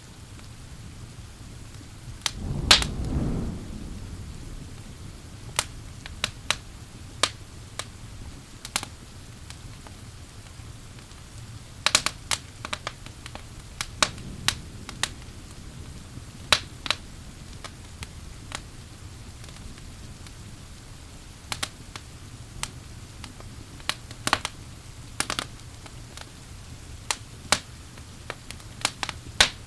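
Wood fire crackling with irregular sharp pops over a steady hiss of rain; a short, low rumble of thunder comes about two seconds in.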